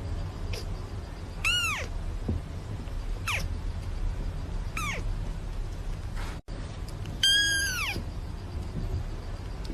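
A cat meowing four times, each meow rising and then falling in pitch. The last meow, after a brief break in the sound, is the loudest.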